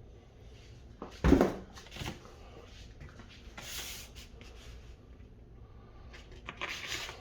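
Food preparation on a kitchen counter. One heavy thump about a second in and a lighter knock just after, then scattered scrapes, rustles and small clicks.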